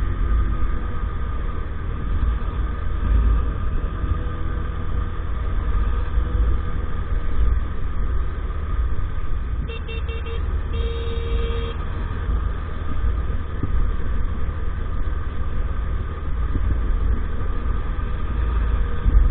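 EAYS Pro 50cc moped running along under heavy wind rumble on the microphone. About ten seconds in, a horn sounds: two short beeps, then one longer beep of about a second.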